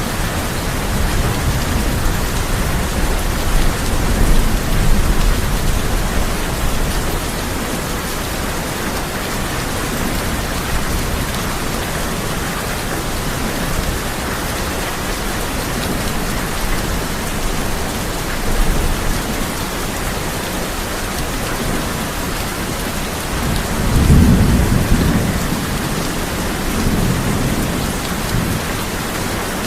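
Heavy rain falling steadily on a tin roof, with thunder rumbling low underneath: rolls in the first few seconds and a louder one about three-quarters of the way through.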